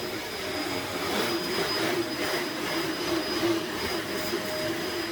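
Upright vacuum cleaner running steadily over carpet, its motor giving a constant-pitched whine over a rushing noise.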